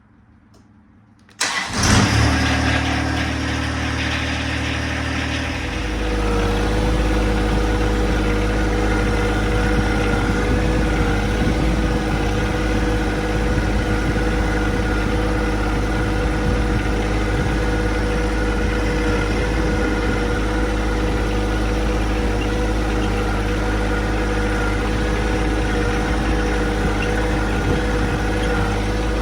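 John Deere 2025R compact tractor's three-cylinder diesel engine running steadily. It comes in suddenly about a second in, and about six seconds in it grows louder and deeper.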